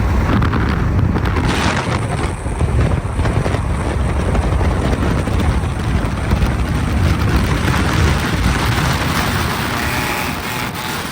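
Vehicle on the move with wind buffeting the microphone: a loud, rough rush of wind and road noise, easing slightly near the end.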